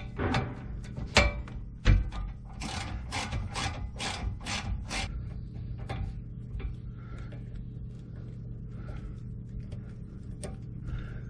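Hand-tool work on a van's rear brake. Three sharp knocks come in the first two seconds, then a run of regular strokes about two a second, easing into softer, scattered scraping and rubbing.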